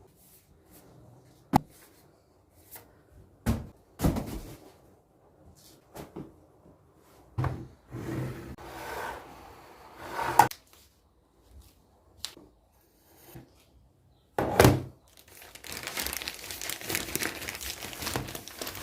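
Things being handled and packed: a scatter of sharp knocks and thuds, with stretches of crinkling, rustling noise like plastic or packaging, the longest near the end.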